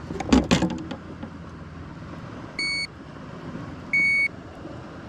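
Short electronic beeps from a digital fish scale, twice: one about two and a half seconds in and a slightly longer one about four seconds in. A brief clatter of handling noise comes near the start.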